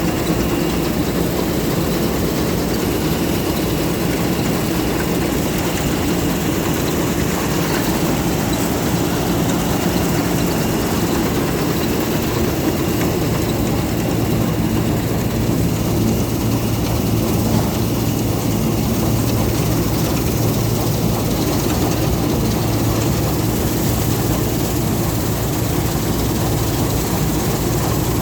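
New Holland TC5070 combine harvester running steadily while harvesting wheat, a continuous engine and machinery drone. A lower engine tone grows stronger about halfway through.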